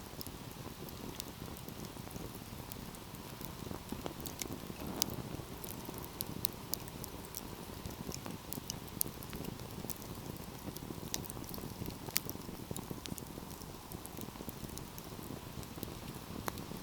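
Wood fire crackling: a steady low rumble of burning with frequent small snaps and several louder pops.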